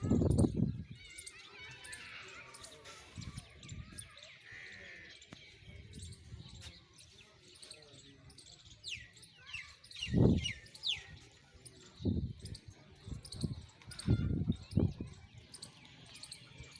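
Small birds chirping outdoors, with a quick run of falling chirps about nine to eleven seconds in. A few short low sounds come now and then.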